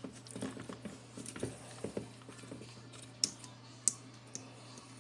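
Small clicks and rustles of hands working on the fan heater's internal wiring while a wire lug is connected, with two sharper clicks a little past the middle.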